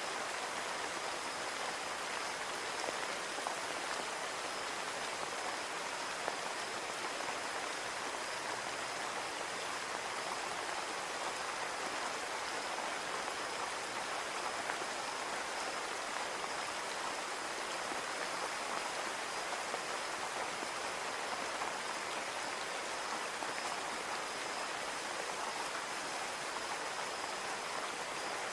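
Steady rain falling on a window: an even, unbroken hiss with faint scattered drop ticks.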